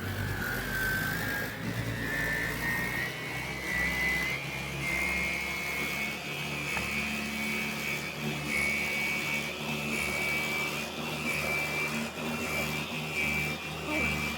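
Carpet-cleaning machine motor running with a high whine that climbs in pitch over the first few seconds and then holds steady, over a low hum.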